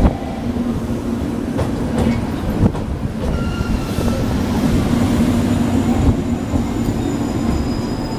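JR Kyushu 883 series 'Sonic' electric limited express rolling slowly alongside the platform as it pulls in: a steady low rumble, with a few clicks of the wheels over rail joints in the first seconds and faint high brake or wheel squeals from the middle on.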